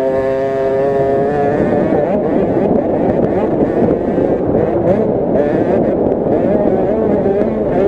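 Several 50cc two-stroke minibike engines racing: one holds a steady high-revving pitch for the first second or so, then many engines overlap, revving up and down.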